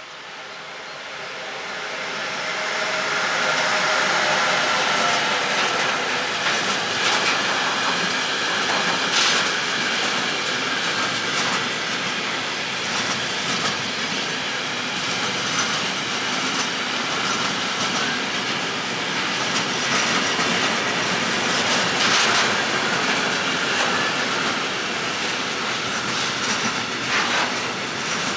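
Electric locomotive hauling a container freight train past, growing louder over the first few seconds as the locomotive approaches and goes by, then a steady rumble of the passing wagons with wheels clicking over the rail joints.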